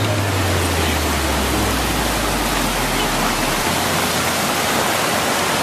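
Waterfall rushing steadily, a dense even roar of falling water. A low sustained tone dies away a little past halfway through.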